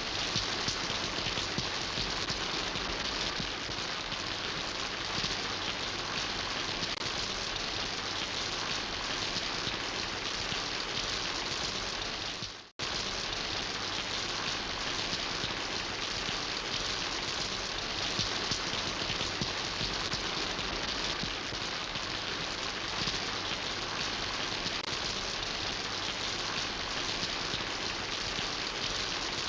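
Steady rain falling, a dense even patter. About twelve seconds in it cuts out for a split second and comes straight back.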